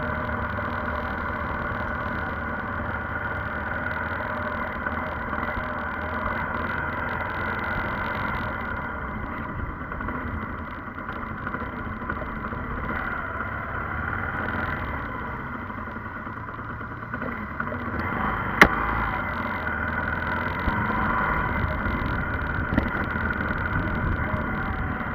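A road vehicle's engine running steadily with road noise. One sharp click comes about three quarters of the way through.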